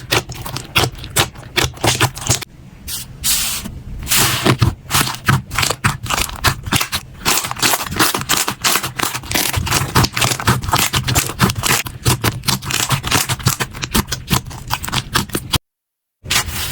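Slime being squeezed and pressed by hand, giving rapid, dense crackling clicks and pops, with a brief cut to silence near the end.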